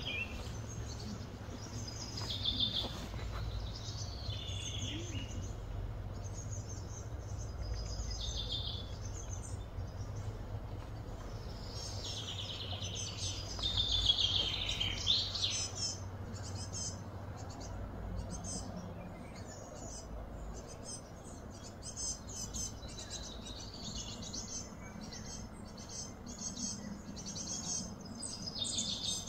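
Small birds chirping and calling in short high notes over a steady low hum, with a busier run of calls, some falling in pitch, about halfway through.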